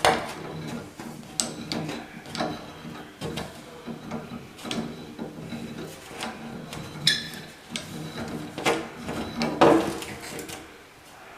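Adjustable wrench working a shower valve loose from its fitting: a string of metallic clicks, clinks and scrapes with no steady rhythm, a few of them ringing briefly, the loudest about seven seconds in and near the end.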